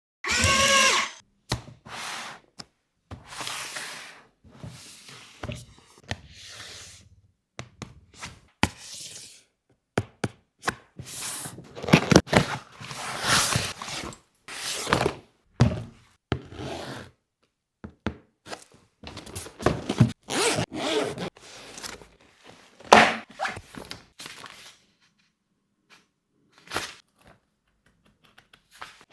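Stop-start rubbing, scraping and a few dull thunks, like hands unpacking a small toy box and its packaging.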